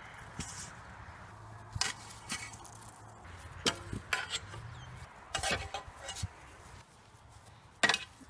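A handful of light knocks and clicks at irregular intervals over a faint low hum, the loudest one near the end.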